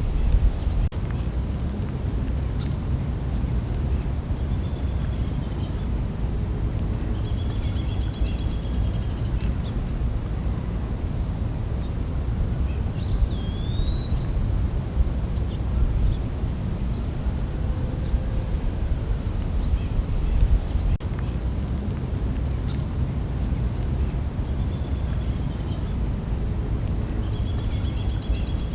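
Night forest ambience: a steady high-pitched insect drone with runs of quick, evenly spaced cricket chirps. Occasional short bird calls come twice in pairs and a single whistled call falls in between, all over a steady low rumble.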